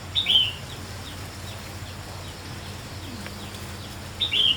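A bird calling: a short, high, falling chirp twice, about four seconds apart, with fainter chirps in between.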